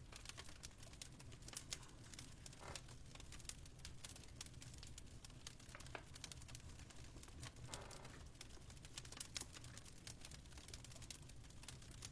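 Fireplace fire crackling softly: a steady stream of small, irregular pops and snaps over a low steady rumble, with a couple of brief hissing flares.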